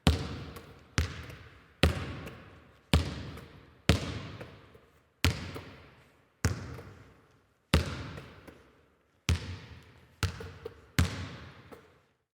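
A series of about eleven sharp impacts, roughly one a second, each fading out over about a second.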